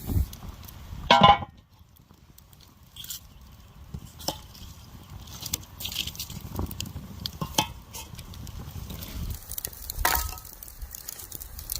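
Cookware and dishes clinking and knocking: one loud ringing clink about a second in, then scattered lighter clicks and taps.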